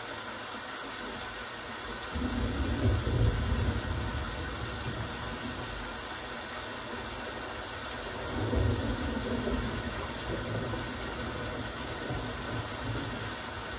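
Steady rain hiss, with a low rumble that swells and fades several times, the strongest about two seconds in and about eight seconds in.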